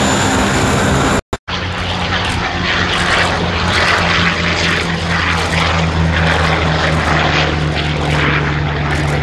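Piston-engine propeller aircraft running with a steady drone, broken by a brief dropout just over a second in where the sound cuts to another shot.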